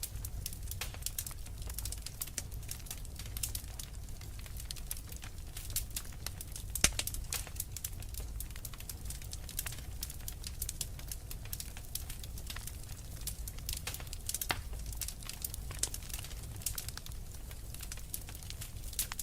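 Wood fire crackling with many irregular sharp pops, the loudest about 7 seconds in, over a steady low rumble.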